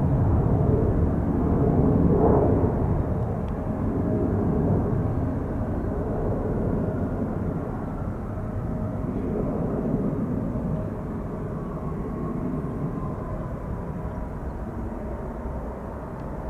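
Jet engines of a Boeing 757-300 airliner on its landing rollout: a steady engine rush that is loudest at first and slowly fades.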